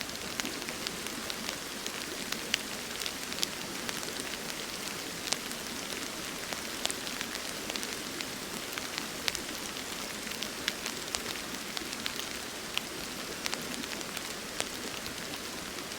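Steady rain falling, with many small drop ticks scattered over an even hiss.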